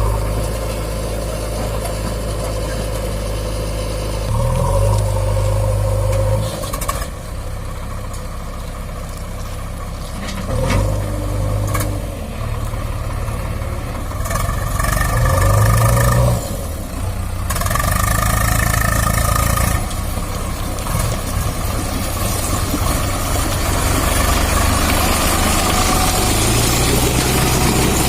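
Diesel engine running, revving up and down several times between steadier stretches.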